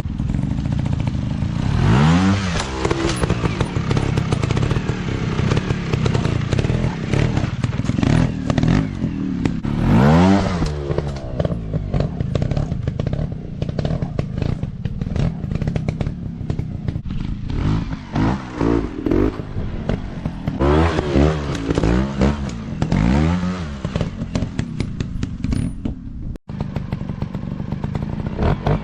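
Dirt bike engines revving over a steady engine rumble, the throttle opened and shut again and again so the pitch repeatedly rises and falls, with some clattering knocks.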